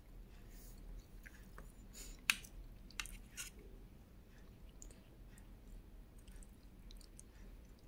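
A person chewing a mouthful of rice and fried egg, with soft wet mouth sounds. A few sharp clicks of a spoon against the plate stand out, the loudest a little after two seconds in and two more about a second later.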